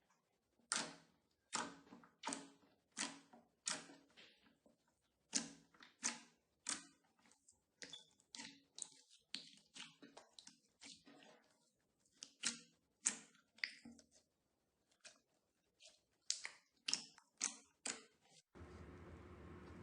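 Slime being pressed and poked by hand, giving short clicking, crackling pops about one to two a second. Near the end the pops give way to a steady low hiss.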